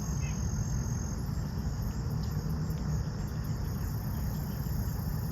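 Steady high-pitched insect chorus, cricket-like, over a low, even rumble.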